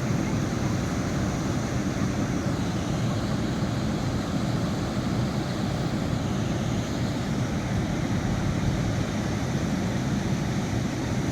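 Flood water pouring over a river dam, a steady low rushing noise with no breaks.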